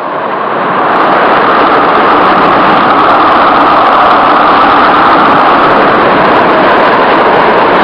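Loud, steady rush of compressed air blowing from an air compressor's hose. It swells over the first second and cuts off suddenly near the end.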